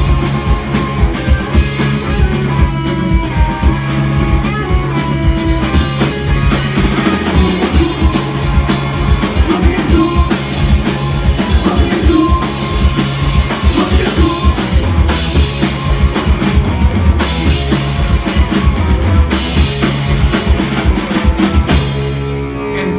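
Live rock band playing a song on a club stage: a drum kit beating a steady rhythm under bass and electric guitar. The drums stop just before the end.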